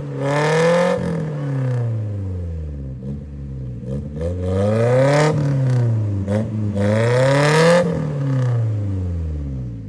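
Off-road 4x4's engine revving hard three times, its pitch climbing to a peak and falling away each time, as it works through an obstacle.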